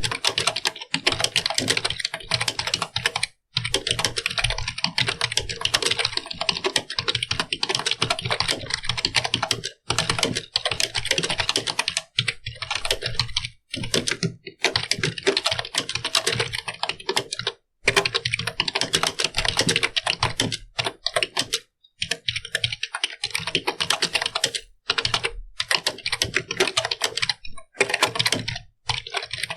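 Fast, continuous typing on a computer keyboard, a dense run of key clicks broken by short pauses every few seconds.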